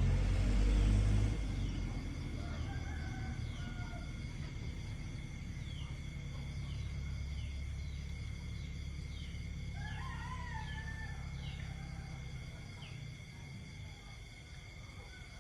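Night chorus of insects and frogs: steady high-pitched insect drones, with a string of short falling chirps about once a second. A low rumble is loudest in the first second or so, and about ten seconds in a wavering animal call rises and falls for a second or two.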